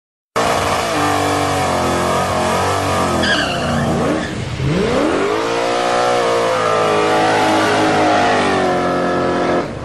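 Car engine at full throttle accelerating hard in a street race, its pitch climbing, dropping at a gear change about four and a half seconds in, then climbing again. A brief high squeal sounds about three seconds in.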